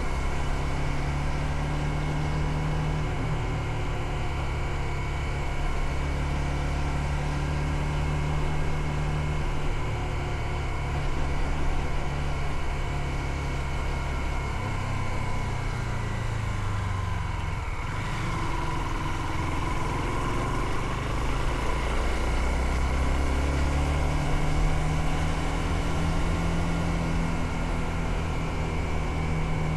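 Motorcycle engine running while riding, heard from on board the bike. The engine note drops about halfway through and climbs again a few seconds later.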